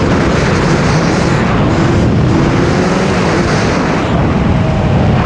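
Two-stroke dirt bike engine running while being ridden, its pitch climbing slowly twice, under heavy wind rumble on the microphone.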